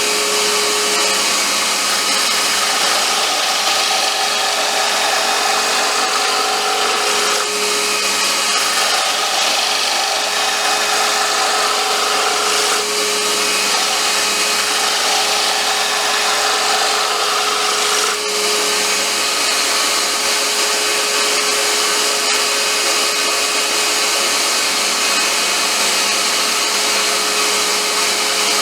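Wood lathe running with a steady motor hum while a turning tool cuts a wooden lure blank, a continuous loud scraping hiss. The cutting noise dips briefly a few times.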